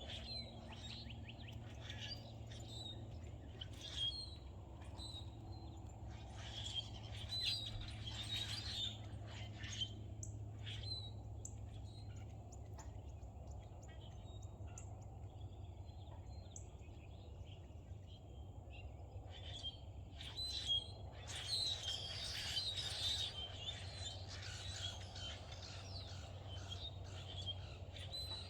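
Several wild songbirds chirping and calling in short, overlapping notes, busiest about a third of the way in and again about three quarters through, over a steady low hum.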